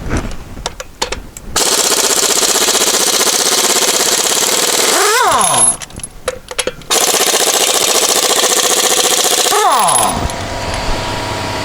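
Impact wrench hammering on 19 mm lug bolts in two long bursts of about three seconds each, the motor winding down at the end of each. The bolts are hard to break loose.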